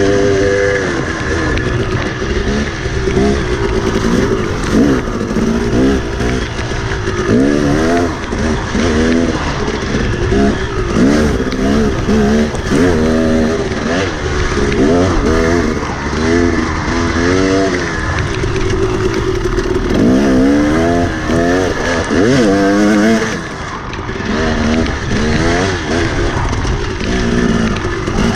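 Enduro dirt bike engine revving up and down over and over as the throttle is worked, its pitch rising and falling every second or so. A steady hiss runs underneath.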